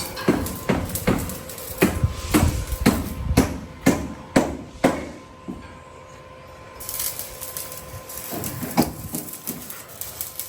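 Hammer blows at a building site, a steady run of about two strikes a second for about five seconds, then a pause and a few more strikes near the end.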